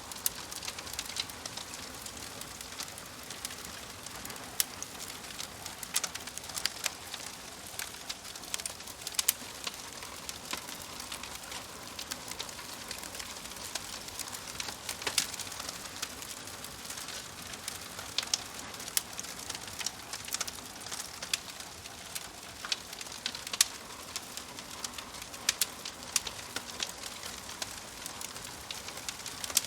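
Wood fire crackling: a steady hiss with many sharp, irregular pops and snaps.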